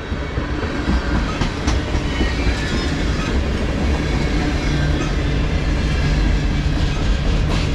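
Tank cars and boxcars of a long freight train rolling past: a steady rumble of steel wheels on the rails with occasional clicks.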